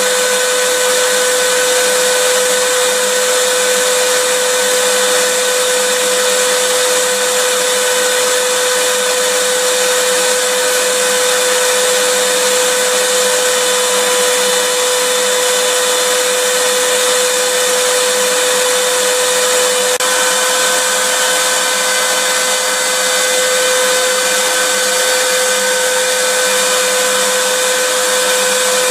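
Electric vacuum cleaner running steadily: a constant motor whine over a rush of air, with no change in speed.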